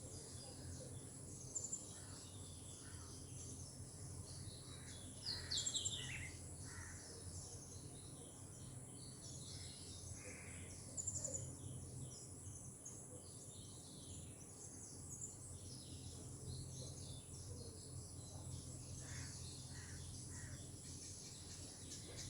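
Faint outdoor ambience with scattered bird chirps. The loudest is a quick falling call about five seconds in, with another about eleven seconds in. Under them run a steady low hum and a constant thin high whine.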